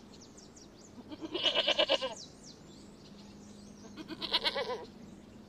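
Goat bleating twice, each a wavering bleat about a second long.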